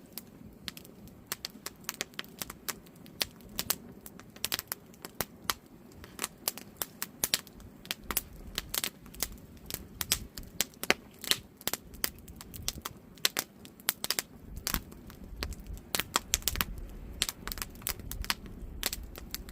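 Wood campfire crackling: dense, irregular sharp pops and snaps from burning firewood over a soft low rush of the flames.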